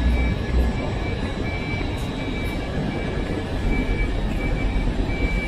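A train slowly running into a station under a large roof: a steady low rumble and noise, with thin high tones above it. One of those tones breaks on and off every half second or so.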